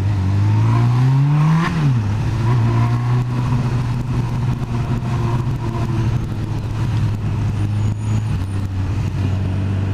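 Motorcycle engine revving up for under two seconds, then dropping back and running steady at low revs while the bike moves slowly through traffic.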